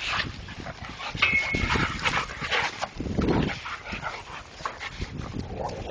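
Young pit bull puppies play-fighting, giving irregular short dog vocalisations in bursts.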